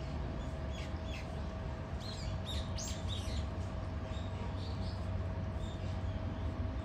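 Small birds chirping in scattered short calls, busiest about two to three seconds in, over a steady low hum.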